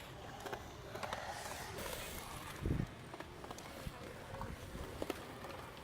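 Faint background chatter of voices with scattered clicks and knocks, and one louder low thump a little before the middle.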